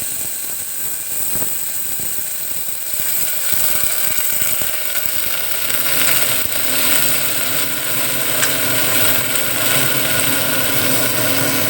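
Steady sizzling of food frying in hot oil with tempered fenugreek and mustard seeds in a pressure cooker, growing a little louder about three seconds in.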